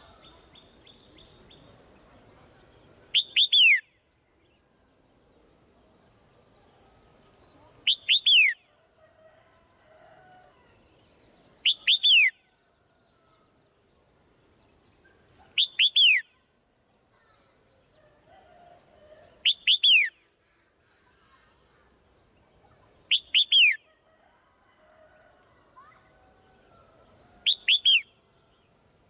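A bird calling: a short, loud, falling whistled call, given in a quick pair, repeated seven times at even intervals of about four seconds, over a faint steady high hiss.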